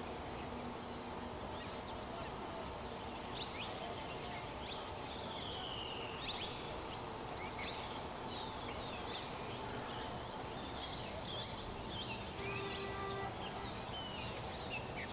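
Many birds chirping over a steady background hum of outdoor noise, with a brief steady tone sounding about twelve and a half seconds in.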